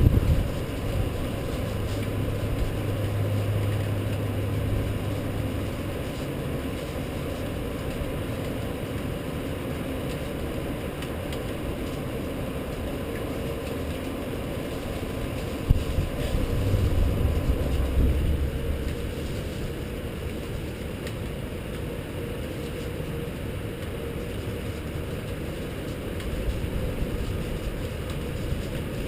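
Steady low rumble of city traffic, swelling louder twice as vehicles pass, with one sharp click about halfway through.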